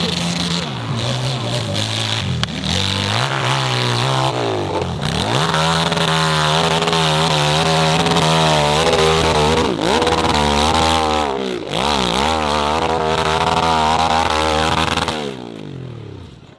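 Racing motorcycle engine revving hard through the gears, its pitch repeatedly climbing and dropping at each shift. It fades away quickly near the end.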